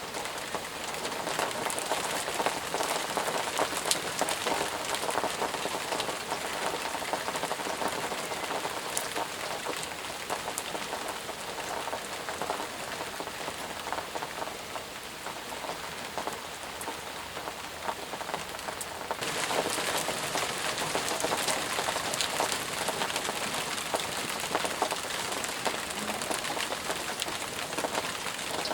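Steady, intense rain falling, a dense hiss with single drops ticking close by. About two-thirds of the way in, the hiss suddenly turns brighter and fuller.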